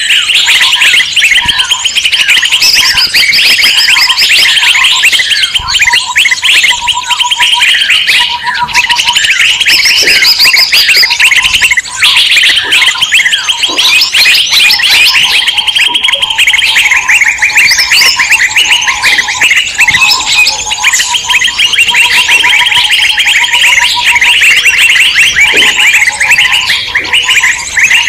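A bird-lure recording of many small birds calling at once in an agitated, noisy chorus: dense, rapid, overlapping chirps and trills, with a lower whistled note repeated again and again.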